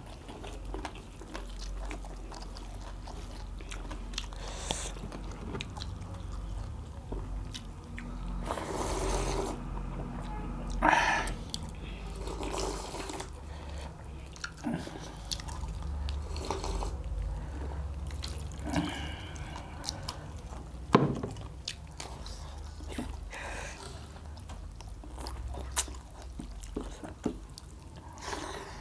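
Close-up eating sounds of a person biting and chewing roast and curried quail with rice: wet chewing with scattered crunches and sharp snaps as the small bones are bitten.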